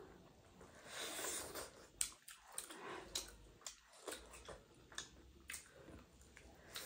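Chewing and biting into chicken biryani on the bone, eaten by hand. Faint wet mouth clicks and smacks come at irregular intervals, about one a second.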